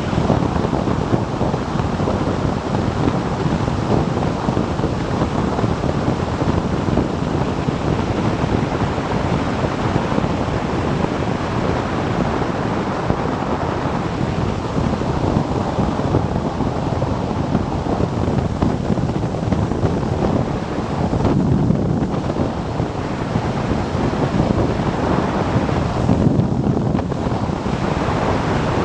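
Steady wind rush on the microphone of a camera on a motorcycle riding at speed.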